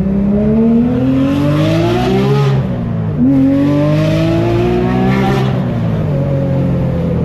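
Porsche 997 GT3 RS's naturally aspirated flat-six accelerating hard. The revs climb for about two and a half seconds, drop sharply at an upshift, climb again through the next gear, then fall away and settle near the end.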